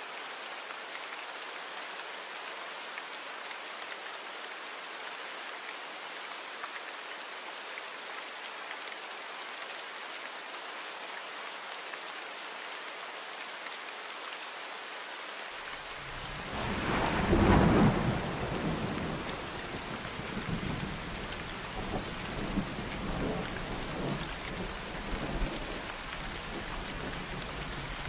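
Steady rain falling. Past the middle a clap of thunder breaks in, loudest for a second or two, then rolls away in uneven crackles over several seconds.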